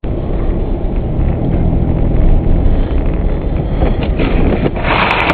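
Car driving on a snowy road, heard from inside the cabin: a loud, steady low rumble of engine and tyres. Near the end a brighter hiss rises and a few sharp clicks sound.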